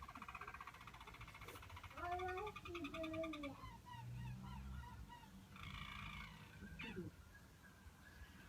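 Harz Roller canary singing its low, rolling song: a fast trill, then deep gliding notes, then a run of short sliding notes and another trill.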